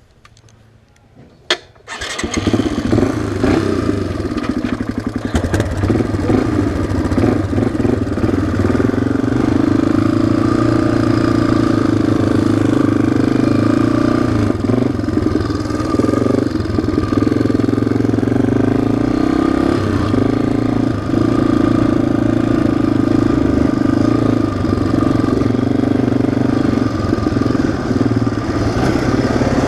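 An off-road vehicle's single-cylinder four-stroke engine, either the ATV's or the dirt bike's, starts about two seconds in, just after a sharp click. It then runs loud and steady at a fairly even speed, with a few brief dips.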